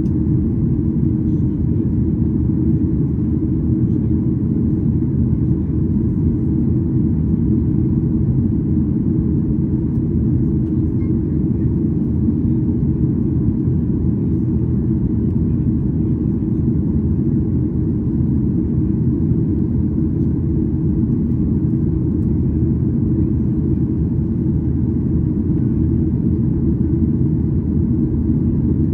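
Steady cabin rumble of a Boeing 737-800, the noise of its CFM56-7B engines and airflow heard from inside the cabin. It holds an even level with no changes in pitch.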